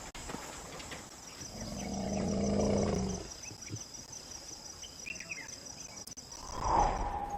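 Crickets chirping in a fast, even pulse. About two seconds in comes an elephant calf's low, pitched call, lasting about a second and a half.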